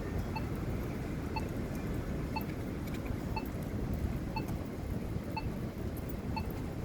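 Strong wind buffeting the microphone in a steady low rumble. Through it, a faint short beep repeats about once a second, like a pedestrian push-button locator tone at a signalized crossing.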